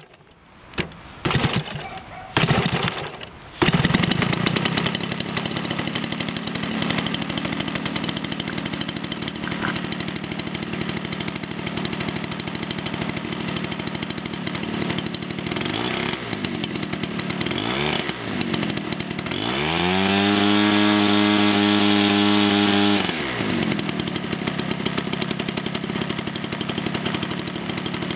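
SPE 40cc single-cylinder two-stroke gas engine on a quarter-scale Cub model airplane: a few short bursts, then it catches about four seconds in and runs at idle. It is blipped twice, then opened up to a steady high-rpm run for about three seconds before dropping back to idle.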